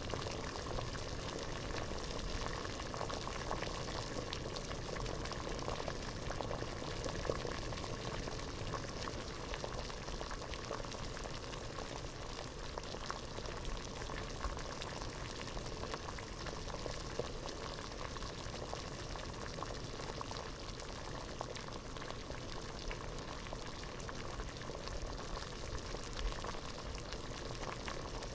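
Water at a rolling boil in a pot, bubbling steadily with a dense patter of small pops.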